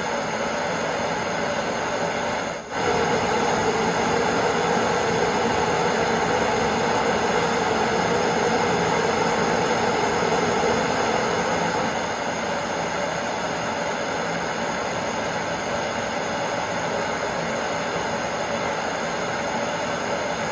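Torch burning with a steady hiss while it reheats a small nail for forging. The hiss cuts out briefly about three seconds in, then runs a little louder until about twelve seconds in.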